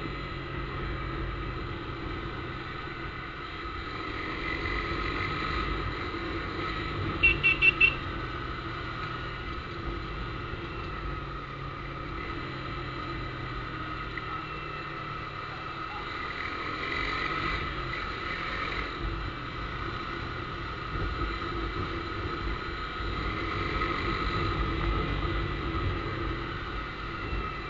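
Motorcycle with a newly fitted aftermarket exhaust running steadily on the road, its loudness swelling now and then. About seven seconds in come four short, loud, high-pitched beeps.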